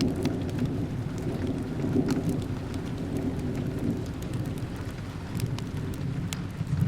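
Steady rain over a continuous low rumble, with scattered sharp crackles from a wood fire.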